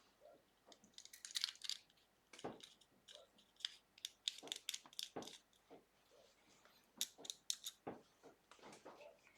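Faint, irregular clicks and small taps of metal pen-kit parts being handled and screwed together while a click-action cigar pen is finished off.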